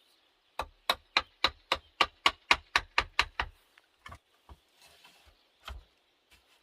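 A quick run of about a dozen sharp strikes, roughly four a second, from a hand tool hitting wood, followed by a few scattered, weaker knocks.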